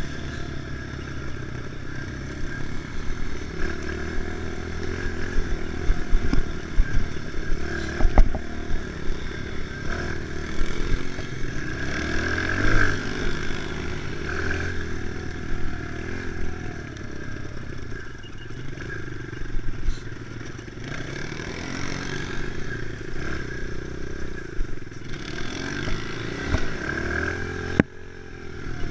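Kawasaki KLX110 pit bike's small single-cylinder four-stroke engine running under load, its pitch rising and falling with the throttle, with clatter and a few knocks from the bike over rough ground.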